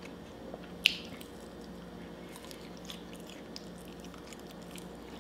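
Close-miked eating sounds: one sharp mouth click about a second in, then faint chewing with small scattered mouth clicks over a faint steady hum.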